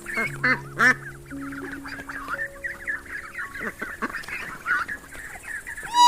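A flock of birds calling all at once, with many short overlapping calls and a few louder ones in the first second.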